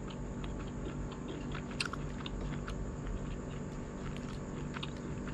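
A person chewing a mouthful of grilled meat from a street-food skewer, with small wet clicks of the mouth and one sharper click about two seconds in, over a steady background hum.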